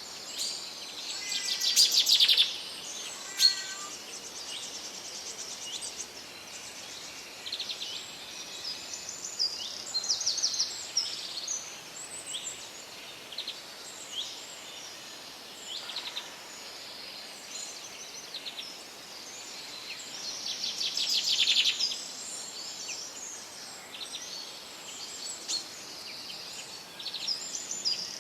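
Forest birdsong: several birds calling and singing over a steady faint hiss, with loud rapid trills about two seconds in, around ten seconds and around twenty-one seconds.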